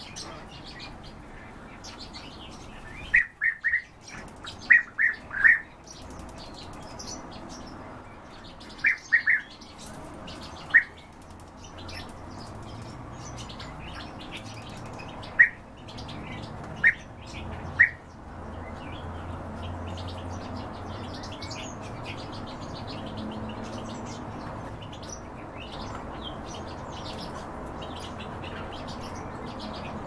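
Caged birds chirping: loud short sharp chirps, singly and in quick runs of two or three, over a constant faint twitter of other birds. The loud chirps stop a little past halfway.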